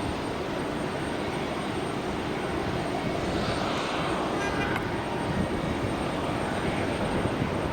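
FedEx Boeing 767 freighter's jet engines as it comes in to land, a steady broad rush of jet noise.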